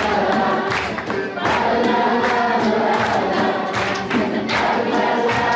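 A large group of voices singing together, with a steady beat about twice a second.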